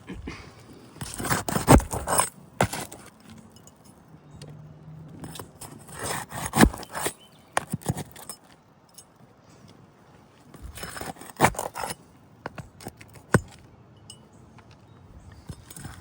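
Metal hand tools clinking and scraping against roof shingles, in three short clusters about five seconds apart, with a single sharp click later.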